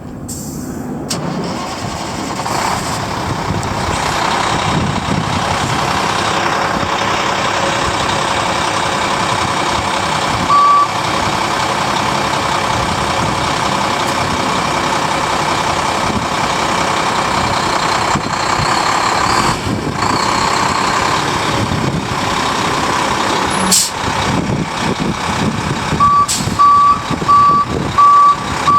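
A 1997 Volvo WG64F dump truck running, its engine steady after building up over the first few seconds. A single back-up alarm beep sounds near the middle, and there is a brief sharp sound a few seconds before the end. Near the end the back-up alarm beeps repeatedly as the truck reverses.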